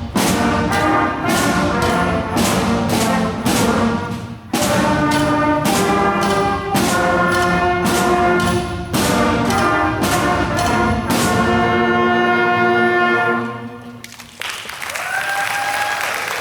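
A student band with strong brass plays a run of punchy, accented chords, then holds a final chord that fades out about fourteen seconds in. Audience applause and a few cheers start right after.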